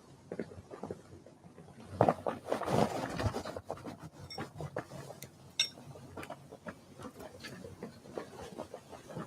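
Irregular light taps and clicks on a wild-bird feeder, with a louder rustling flurry about two seconds in and a couple of brief high chirps in the middle.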